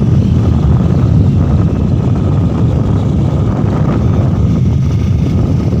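Motorcycle on the move: a steady low engine and road rumble mixed with wind buffeting the microphone.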